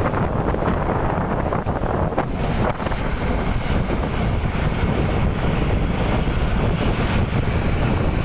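Strong wind buffeting the microphone of a moving vehicle, with a steady low road and traffic rumble underneath.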